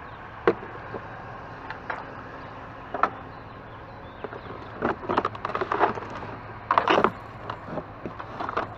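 Wooden and hard household junk being shifted and knocked together while rummaging through a bulk trash pile: a few single knocks, then bursts of clattering.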